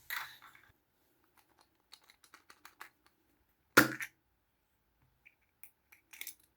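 Small plastic Kinder Surprise toys being handled on a hard surface: a quick run of light clicks and taps, one much louder knock about four seconds in, then a few more clicks near the end.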